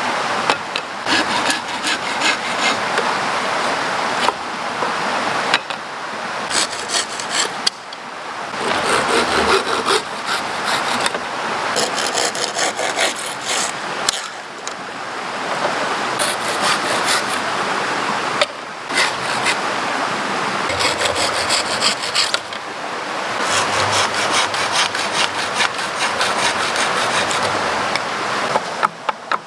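Wood being sawn by hand, a saw rasping through it in several bouts of a few seconds with short pauses between.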